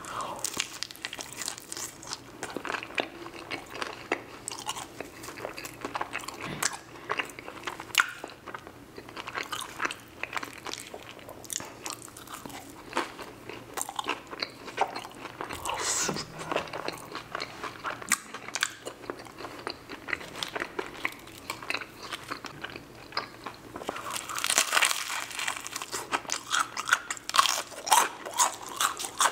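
A person biting and chewing a crispy fried egg roll, with many small crunches. About five seconds before the end, louder, denser crunching starts as he bites into crispy fried chicken.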